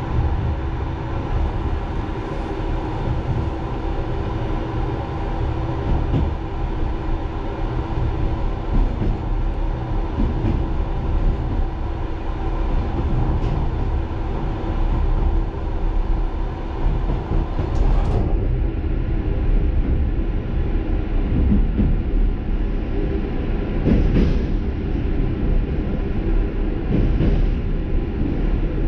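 Running noise of a moving express passenger train heard from inside its rear carriage: a steady low rumble of wheels on rail. A hum runs under it for the first eighteen seconds or so, and a few short wheel knocks come near the end.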